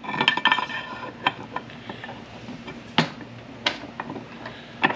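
Metal parts of a manual-transmission shift tower clicking and knocking as a shift rail is worked into place with the mechanism in neutral. A quick run of clicks at the start, then single sharp knocks every second or so, the loudest about three seconds in.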